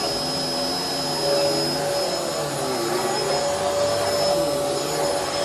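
Bissell Helix upright vacuum cleaner running, a steady motor whine with a lower hum that wavers up and down in pitch as it is worked.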